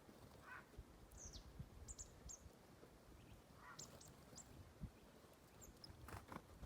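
Faint wild birds calling: short high chirps now and then, with two short, harsher lower calls. A few louder knocks come near the end.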